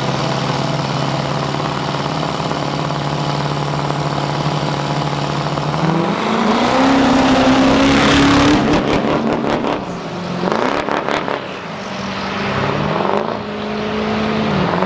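Drag-racing vehicle engines held at steady revs, then launching about six seconds in. The engine pitch climbs and the sound is at its loudest, then it falls away and another engine rises near the end.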